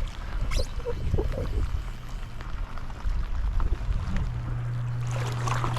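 Wind buffeting the microphone, a rumbling low noise with a few brief knocks and rustles. A steady low hum comes in about four seconds in.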